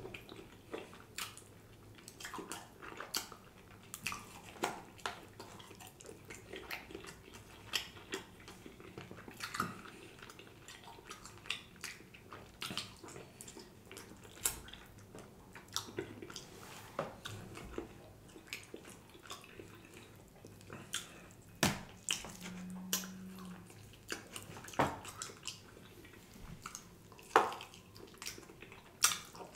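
Close-miked eating of fried chicken: biting and chewing with many short, wet mouth clicks and lip smacks, and a brief low hum about three-quarters through.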